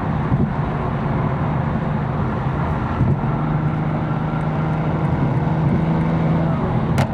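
Tuned 750 hp BMW M4's twin-turbo inline-six running at a steady, light throttle in traffic, a constant drone with little change in pitch. A few sharp clicks come near the end.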